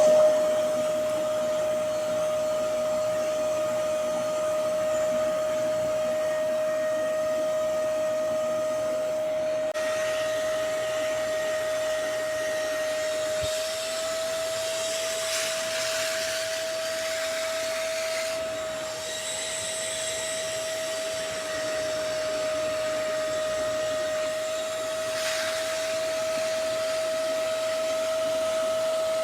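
Hoover CleanSlate cordless carpet and upholstery spot cleaner's suction motor running with a steady whine and a rush of air. The rush swells briefly twice.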